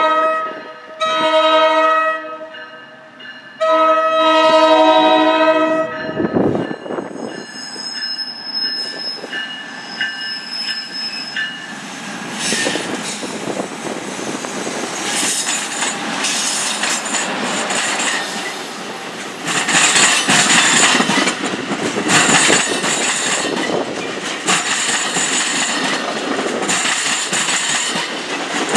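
Electric locomotive's horn sounding in blasts: one ending about a second in, a shorter one, then a longer one ending about six seconds in. Then the locomotive and its double-deck coaches pass close by: rising wheel-on-rail noise with regular clicks over rail joints and bouts of high wheel squeal.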